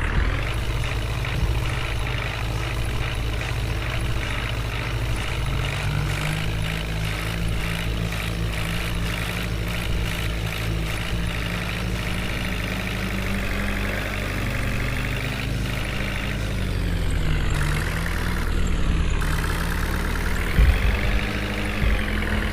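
Heavy diesel engine running steadily, its speed stepping up partway through and then rising and falling repeatedly as it works under load, with a few short knocks near the end.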